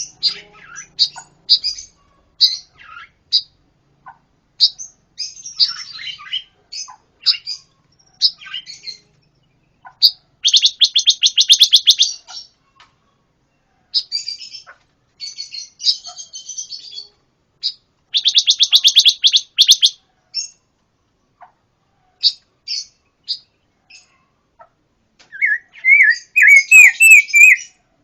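A pancawarna songbird singing loudly: scattered sharp chirps, two long fast rattling trills, and a quick run of rising whistled notes near the end.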